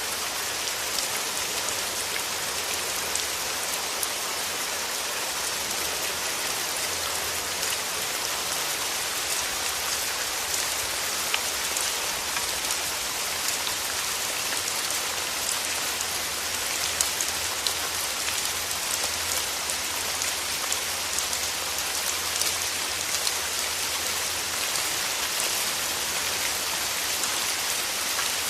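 Steady rain falling through forest trees: an even hiss of rainfall with many small individual drop hits scattered through it.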